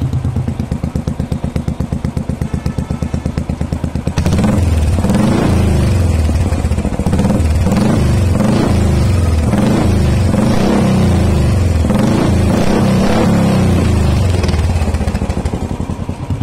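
Royal Enfield Bullet Electra's single-cylinder engine running through the exhaust silencer under test: it idles with an even pulsing beat, is revved repeatedly from about four seconds in, and drops back toward idle near the end.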